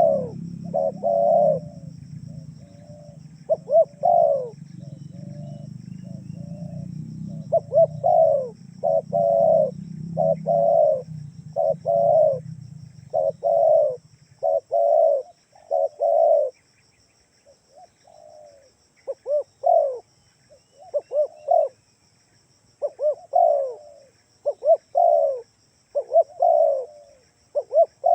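Spotted dove (tekukur) cooing, a lure call repeated over and over in short groups of notes. A low rumble runs under the calls for the first half and then fades away.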